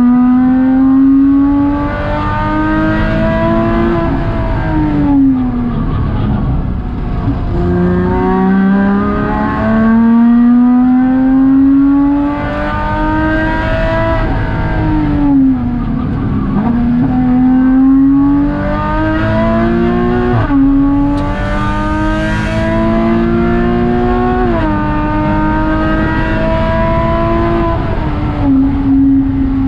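Porsche Cayman 987.2's flat-six engine heard from inside the cabin under hard track driving: the engine note climbs steadily in pitch under acceleration, slides back down when the driver lifts and brakes, and drops sharply twice in the second half as the gearbox shifts up.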